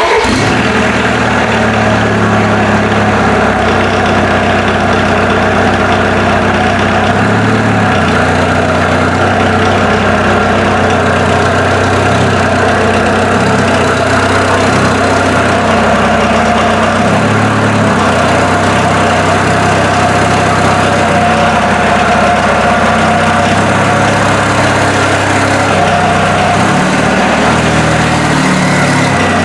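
Volkswagen Jetta's 1.6-litre turbo-diesel engine idling steadily.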